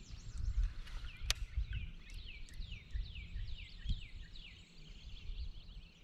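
A songbird singing a run of quick, high, descending whistled notes, about four a second, over a low rumble. A single sharp click about a second in.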